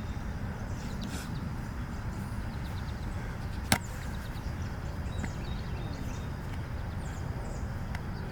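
Steady low rumble across the microphone, with one sharp smack about three and a half seconds in.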